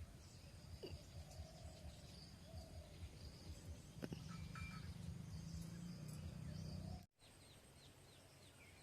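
Faint outdoor ambience with scattered bird chirps. A single sharp knock about four seconds in, and the background changes abruptly at about seven seconds.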